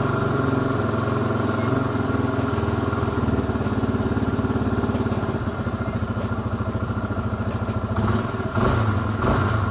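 Yamaha XT250's single-cylinder four-stroke engine idling steadily, turning rougher and uneven near the end.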